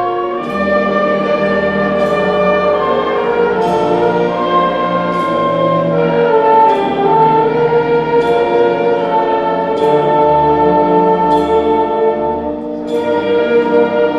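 A high school concert band playing: sustained brass and woodwind chords that change every second or two, with percussion strikes about every one and a half seconds.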